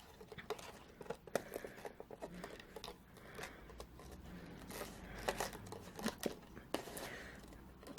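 Faint rustling and scattered small clicks as thin gold ribbon and a card box are handled.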